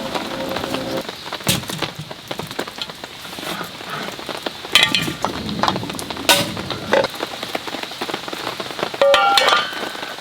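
Steady rain falling, with scattered taps and knocks and three short ringing clinks about halfway through and near the end. Background music fades out about a second in.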